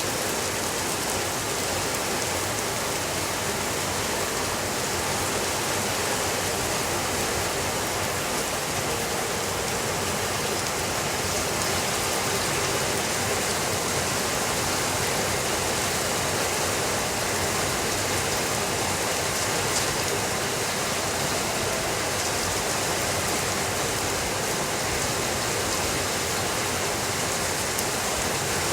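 Steady rainfall, an even hiss of water.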